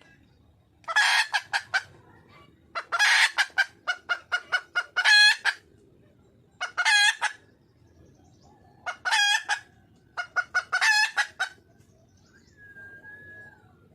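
Wild junglefowl hen calling: about five bouts of quick, sharp clucks, several of them ending in a longer drawn-out note. This is the call a hen gives to draw a male.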